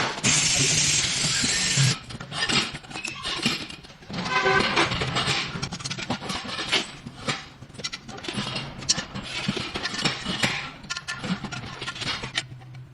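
A machine running with a steady low hum. A loud hiss lasts about two seconds at the start, then comes a run of irregular clicks and knocks, and the hum stops near the end.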